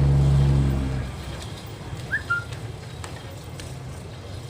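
A steady engine hum fades away about a second in, leaving low background noise. About two seconds in, a short two-note chirp sounds once.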